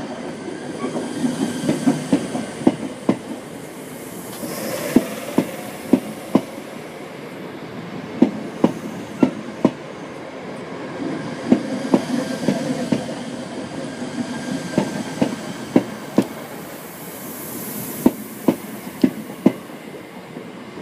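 Greater Anglia Class 321 electric multiple unit pulling out slowly past the platform. Its wheels click over the rail joints in uneven pairs and clusters, over a steady running rumble.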